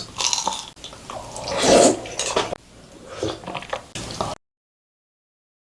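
Close-miked wet, squishing food sounds from Korean-Chinese noodles and sauce, loudest near the middle, then cutting off to dead silence about four seconds in.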